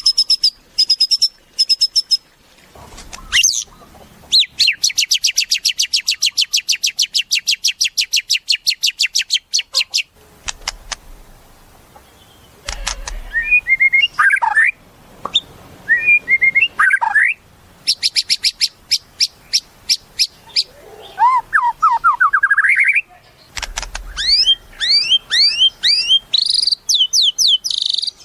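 White-rumped shama (murai batu) singing a varied song: a long run of rapid repeated high notes, then whistled phrases, a rising run of notes, and quick upward-sweeping notes near the end.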